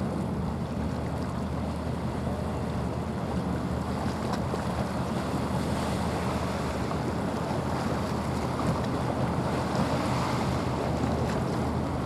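Fishery patrol ship under way, its engines droning steadily under the rush of water along the hull, with wind buffeting the microphone.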